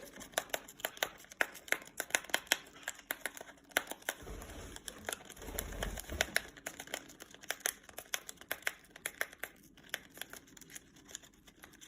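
A parrot tearing open a tea packet with its beak: a long run of irregular small crinkling and ripping crackles, with a low rumble of handling about four to six seconds in.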